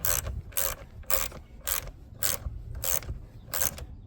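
Ratchet wrench being worked back and forth in short strokes, its pawl clicking on each stroke, seven times at a little under two strokes a second. It is tightening the battery cable terminal clamp.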